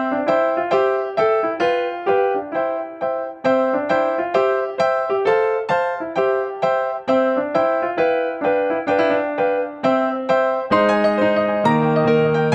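Background piano music: a steady melody of single notes, with lower notes filling in as chords about 11 seconds in.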